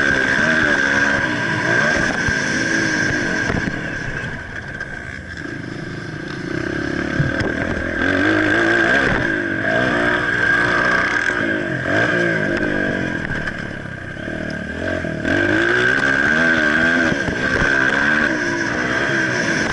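Motocross bike engine revving up and down over and over as the rider works the throttle, easing off twice before coming back up. A steady high whine runs underneath.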